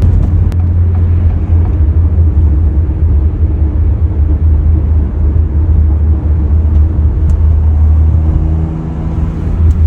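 2023 Acura Integra's 1.5-litre turbocharged four-cylinder running through an MBRP cat-back exhaust with the resonator deleted, heard from inside the cabin with the rear windows cracked while driving. A steady low drone that eases off a little near the end.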